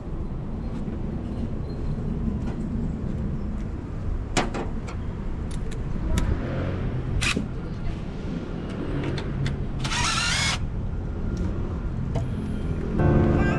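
A vehicle running with a steady low rumble, with a few sharp clicks and a brief high warbling sound about ten seconds in; music comes in near the end.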